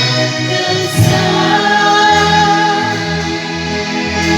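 Christian worship song: long held sung notes over instrumental backing, with the bass stepping between notes.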